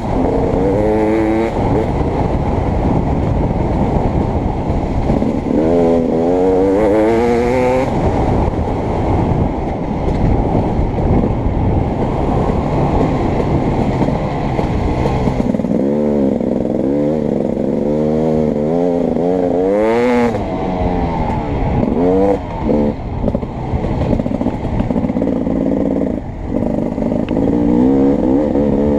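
Beta 300RX 300cc two-stroke motocross bike engine, revved hard and falling off again and again as it is ridden around a dirt track: rising runs of a second or two, each broken by a drop in pitch at a shift or when the throttle is closed.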